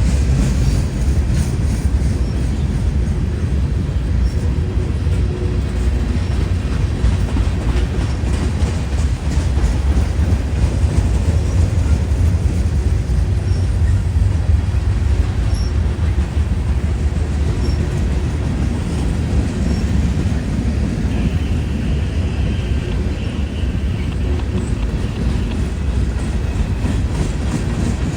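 CSX freight train rolling past, a steady heavy rumble with the clack of wheels over the rail joints, and a faint high wheel squeal for a few seconds past the middle.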